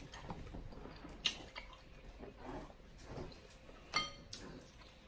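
Close-miked chewing and mouth smacks of someone eating king crab meat, with a few sharp clicks along the way.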